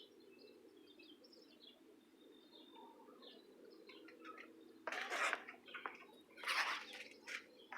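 Faint bird chirps, short and high, over a steady low hum, broken about five seconds in and again about a second and a half later by two louder rushes of noise.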